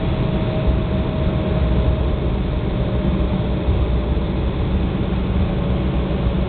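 Cabin noise of an Embraer ERJ-195 on the ground after landing: a steady low rumble from the wheels and airframe with its GE CF34 turbofans running, and a faint steady whine slowly dropping in pitch.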